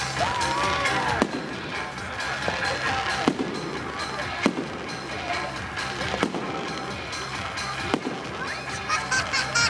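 Fireworks display: aerial shells bursting overhead with sharp bangs every second or two, and crackling in between.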